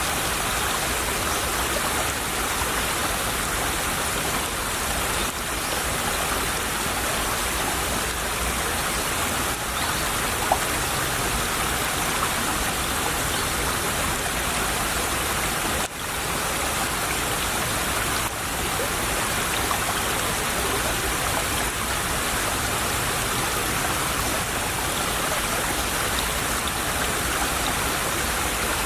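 Small brook trickling and babbling steadily over stones, with a brief dip in level about halfway through.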